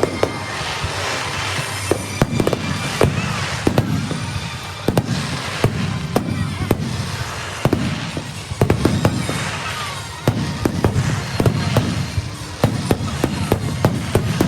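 Fireworks display: a rapid, irregular run of aerial shells bursting in sharp bangs, with continuous crackling between them.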